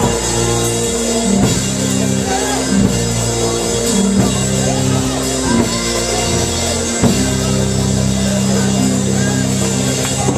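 Church band playing behind the service: held keyboard chords changing every second or so over a drum kit, with voices calling out faintly underneath.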